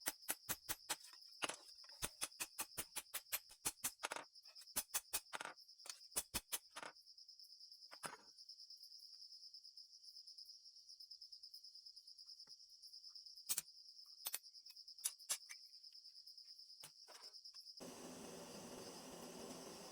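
A steady high cricket trill. Sharp clicks, about four a second, run over it for the first seven seconds, then come only now and then. Near the end the trill stops and a steady hiss takes over.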